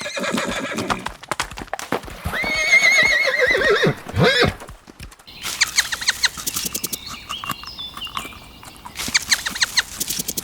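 A horse whinnying: one long quavering call that drops away at its end, followed by a run of sharp clicks and knocks like hooves clip-clopping.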